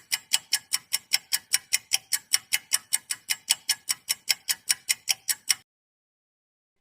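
Ticking clock sound effect: fast, even ticks about five a second that stop suddenly near the end.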